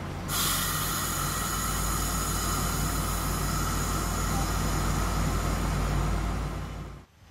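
Dubbed-in recording of a full-size train rolling, not the model's own motor: a steady low rumble with a constant high ringing layer on top, fading and cutting off near the end.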